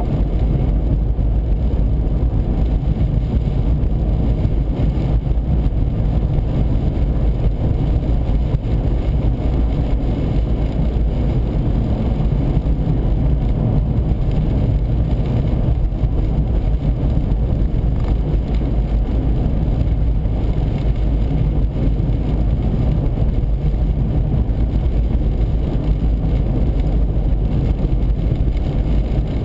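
Steady low rumble of a car driving at highway speed, heard from inside the cabin: road and wind noise, with a strong crosswind pushing against the car.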